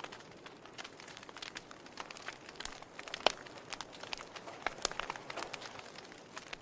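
Wood fire burning in a fireplace, crackling with irregular sharp pops and snaps over a low hiss; the loudest pop comes a little over three seconds in.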